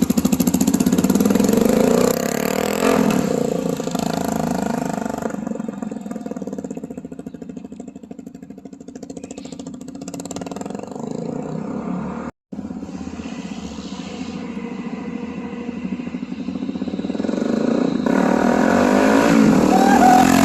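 Kawasaki KLR650's single-cylinder engine running through an open aftermarket Delkevic exhaust on the move. It fades away into the distance over the first several seconds, then comes back louder toward the end.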